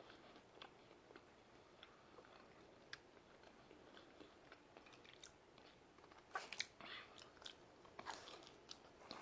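Faint mouth sounds of a person chewing pizza: scattered small wet clicks, which grow louder and denser for a couple of seconds about six seconds in.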